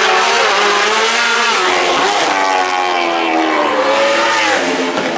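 Superbike racing motorcycle engines at high revs on a road course, the pitch repeatedly climbing and then dropping, as with gear changes and a bike passing.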